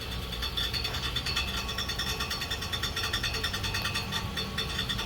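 2005 Chevy Suburban running with a fast, even metallic rattle from underneath, the kind of noise usually blamed on a failed catalytic converter. The owner suspects it comes from the original starter instead.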